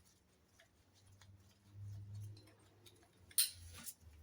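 Faint clicks and handling of parts on the engine as the carburettor overflow pipes are worked off, with one short scraping rustle about three and a half seconds in.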